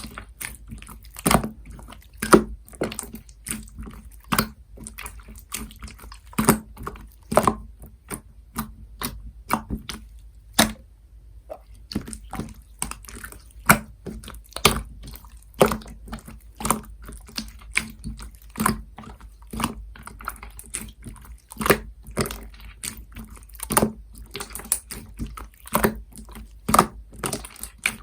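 Slime being squished and pressed by hand, making wet clicks and pops a few times a second, with a brief pause about eleven seconds in.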